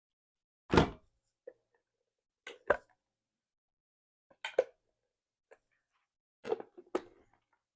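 Short plastic clicks and knocks from a cordless handheld vacuum's dust cup being released with its button and handled, in four brief groups a second or two apart.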